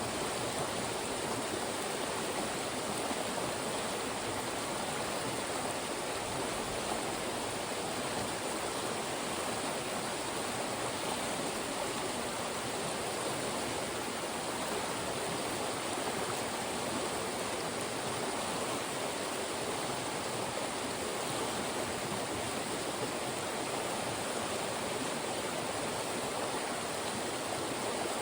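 Fast-moving mountain stream rushing through funnels of rocks, a steady, even rush of water.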